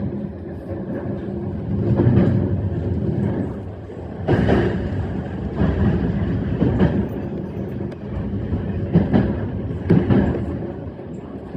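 E131 series electric train running along the line: a steady low rumble of wheels on rail, with louder surges every second or two at irregular spacing.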